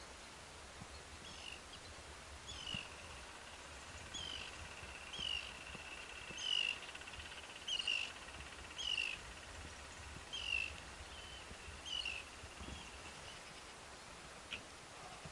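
A bird calling over and over: about nine short, falling, high calls, one every second or so, which stop about twelve seconds in, over a faint low outdoor rumble.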